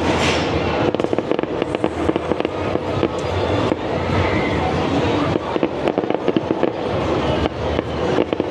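Fireworks going off in rapid succession, a dense run of bangs and crackles.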